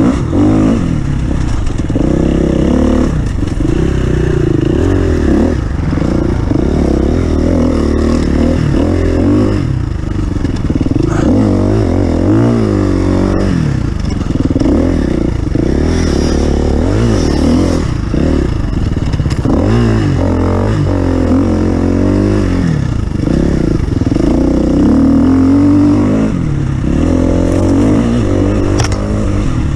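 Several racing engines revving up and down over and over, their overlapping pitches rising and falling as the off-road racing vehicles accelerate and back off.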